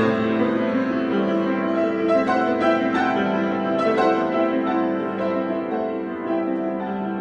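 Piano improvisation: sustained chords and melody notes changing at a slow to moderate pace, getting slightly softer in the last two seconds.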